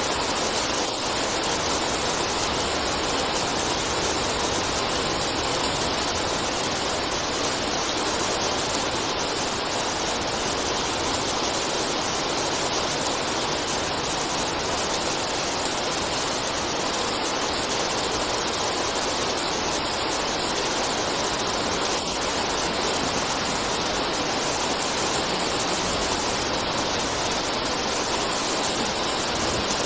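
Steady rain falling, an even hiss that neither builds nor eases.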